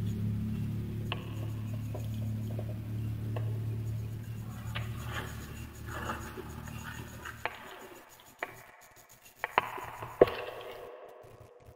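Wood fire crackling, with scattered sharp pops and snaps that grow sparser and louder near the end. A low steady hum underneath fades out about seven seconds in.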